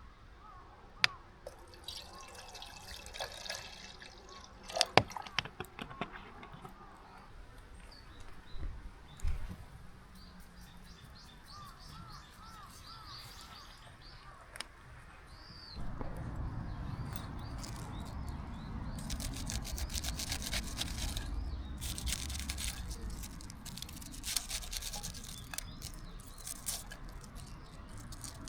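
Scattered clicks and knocks of things being handled, then from about halfway through water running and splashing steadily with dripping.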